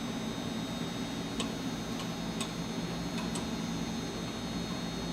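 Steady low hum of the shop with a few faint, light ticks, as a metal cowling sheet is handled during shaping.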